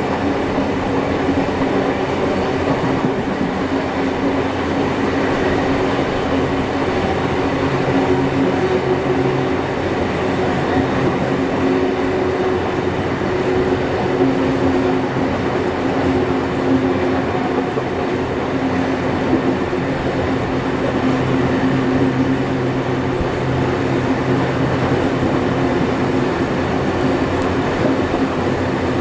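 Steam-hauled heritage passenger train running steadily along the track, heard from on board: a continuous rumble of wheels on rails with a steady low droning hum.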